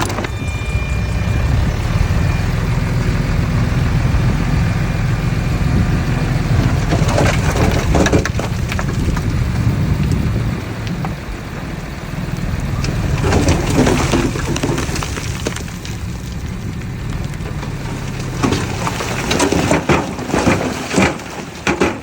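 Diesel engine of a small Mitsubishi BD2F crawler bulldozer running steadily under work, with bursts of metallic clanking and rattling from its steel tracks, once around a third of the way in, again past the middle, and several times near the end.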